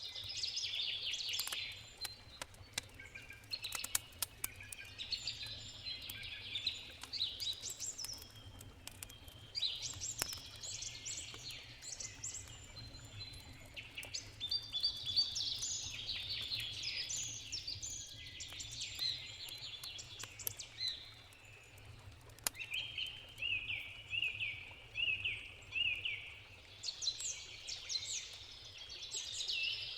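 Songbirds singing in short bright phrases that come back every few seconds, over the sharp pops and crackles of a wood campfire. A faint low steady rush from the river runs underneath.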